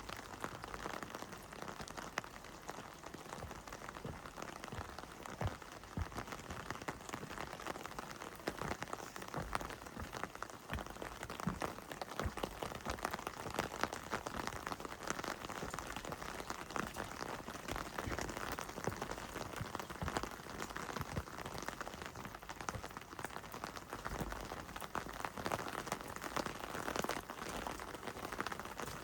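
Heavy rain falling steadily, with many separate drops hitting close by.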